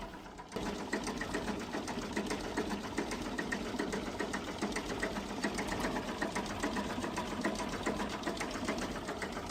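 A machine running with a rapid, even mechanical clatter that starts abruptly about half a second in.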